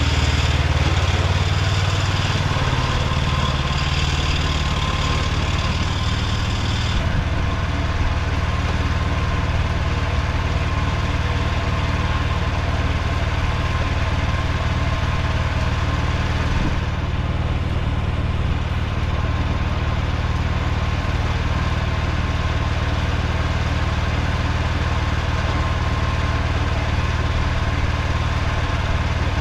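Mini tractor engine running steadily with a low, even drone. A higher hiss over it drops away about seven seconds in.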